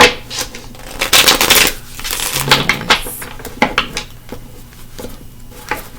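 A deck of tarot cards being shuffled and handled: short rustling riffles, the longest about a second in, among quick clicks and light taps of cards on a table.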